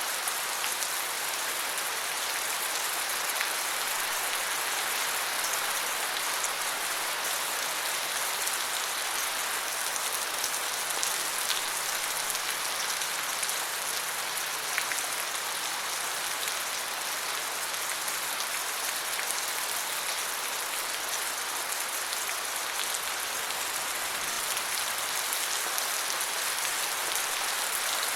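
Steady rain falling on forest foliage, a dense even patter with scattered single drops. A faint low hum sits underneath for a stretch in the middle.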